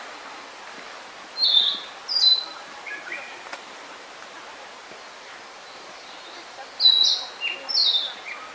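Narcissus flycatcher singing: two short phrases of clear whistled notes, the first about a second and a half in and the second near the end, over a steady background hiss.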